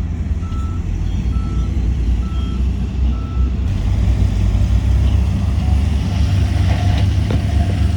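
Heavy diesel machinery running with a deep, steady rumble while a reversing alarm beeps about once a second; the beeping stops after five beeps, a little over three seconds in, and the engine carries on.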